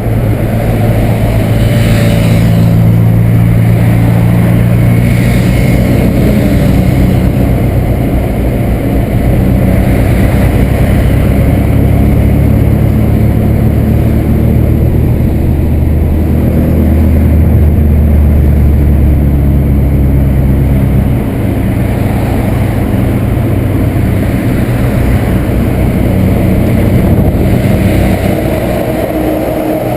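Volkswagen Santana's AP 2000 inline-four engine pulling the car along the road, its note shifting in pitch with throttle and speed. About 21 seconds in the engine drops in loudness and pitch.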